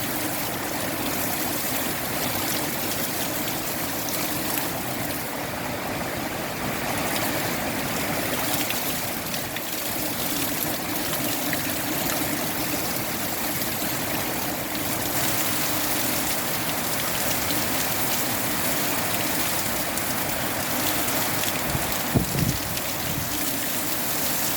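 Steady rain falling, with wind, a continuous even hiss; a single short thump sounds near the end.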